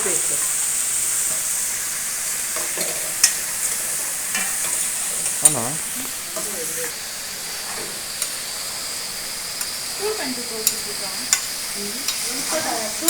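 Ginger-garlic paste frying in hot oil in a pan, a steady sizzle, with a spoon clicking against the pan a few times as it is stirred.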